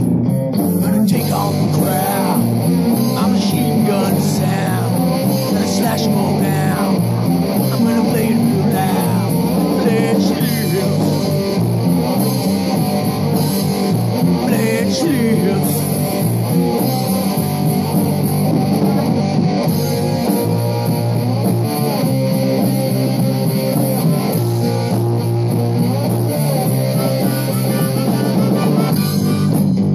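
Rock band playing live between vocal lines: electric guitars and bass over a drum kit, loud and continuous.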